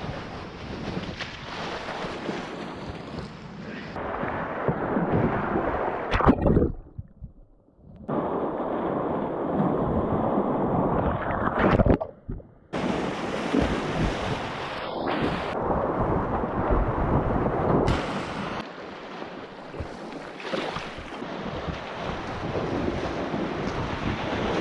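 Rushing creek whitewater with wind buffeting the microphone. It is broken twice by a loud splash-like burst, each followed by a sudden drop to near quiet for a second or two before the rush returns.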